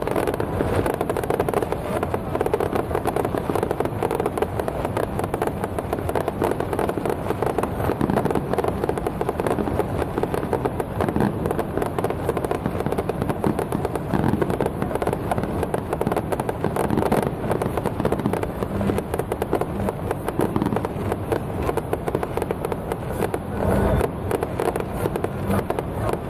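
Fireworks and firecrackers going off in a dense, continuous crackle, unbroken for the whole stretch.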